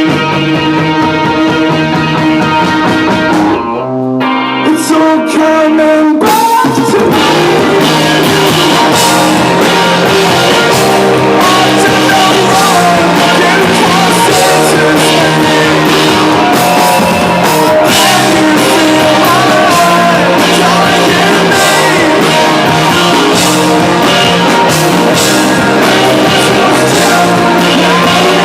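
Live rock band: an electric guitar plays alone, then about six seconds in the full band comes in with drums and the music runs on loud and dense.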